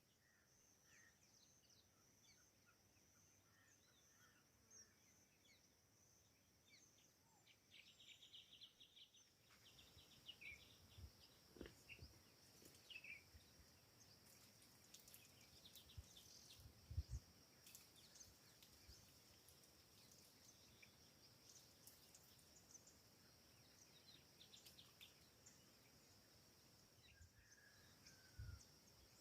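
Faint forest ambience: scattered bird chirps over a steady high-pitched hum, with a few soft low thumps around the middle and near the end.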